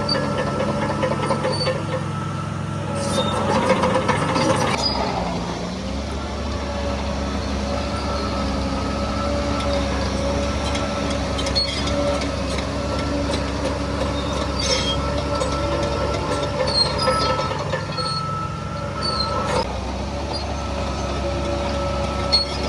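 Bulldozer's diesel engine running with a steady whine. It swells louder for a couple of seconds about three seconds in, then drops back to a lower, rumbling drone. Short high squeaks and clicks are scattered through it.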